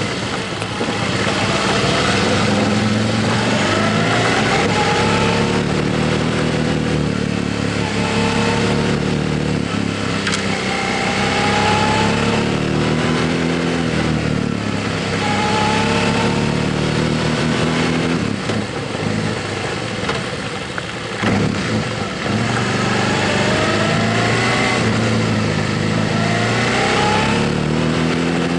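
Motorcycle engine under way, its pitch climbing and then dropping back again and again as the rider accelerates and shifts up through the gears, over a steady rush of riding noise. It eases off briefly about two-thirds through.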